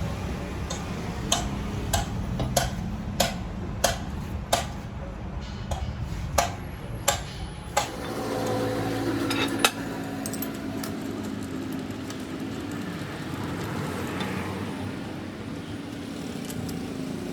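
Metal struck repeatedly in sharp, evenly spaced clinks, about one and a half a second. About eight seconds in they give way to a steadier mechanical running sound with light clatter.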